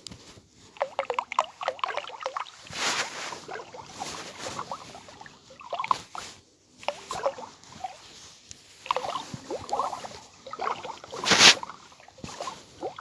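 Close-miked ASMR trigger sounds: irregular soft wet clicks and short rustling swells, with one louder sharp burst near the end.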